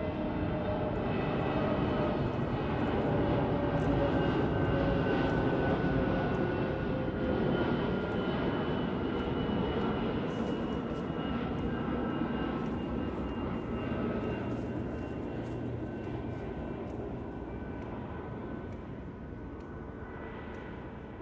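Airbus A320neo jet airliner on its landing approach, its engines giving a steady rush with several whining tones that slide slowly down in pitch as it passes. The sound is loudest about five seconds in and then fades gradually.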